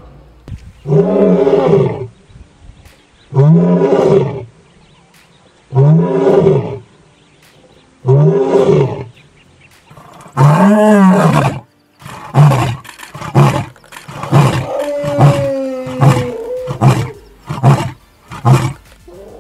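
Male lion roaring: five long, deep roars a couple of seconds apart, then a run of about a dozen short grunting calls, about two a second, that close the bout.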